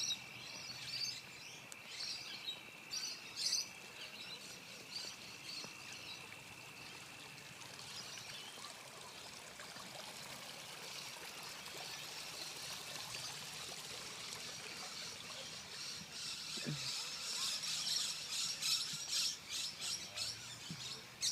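Small birds chirping, with short high calls scattered through the opening seconds and growing busier near the end, over a steady faint wash of outdoor noise.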